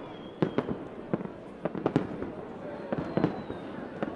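Fireworks going off: irregular sharp bangs and pops, several a second, with a faint high whistle near the start and again about three seconds in.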